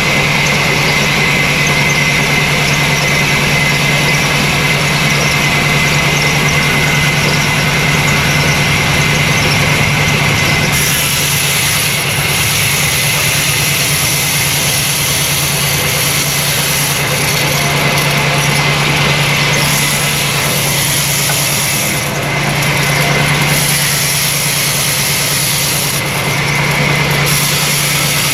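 Sawmill saw machinery running steadily with a constant hum and a high whine; from about ten seconds in, a sharper high-pitched sound comes and goes several times.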